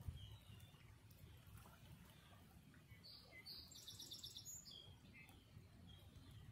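Faint bird chirps over a low background rumble, with a brief rapid run of high chirps a little past the middle.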